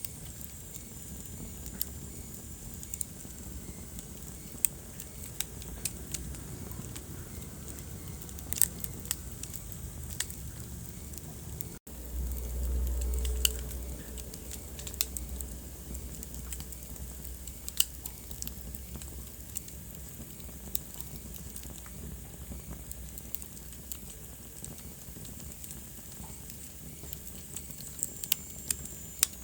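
Wood fire in a fireplace crackling: a steady low hiss with scattered sharp pops and snaps. About twelve seconds in, the sound cuts out for an instant and a low rumble swells for a few seconds.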